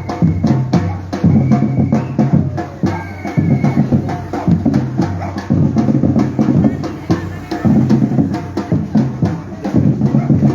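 Batucada percussion group drumming, bass drums and snare drums beating a fast, steady rhythm.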